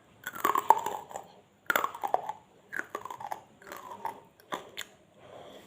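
Close-up biting and chewing of crispy fried chicken skin, a series of crunchy mouthfuls, the loudest in the first two seconds, fading to softer chewing towards the end.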